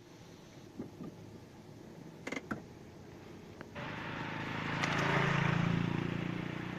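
A motor vehicle passing close by on the road: engine and tyre noise come in suddenly about halfway through, swell to a peak and then fade away. A few faint knocks are heard before it.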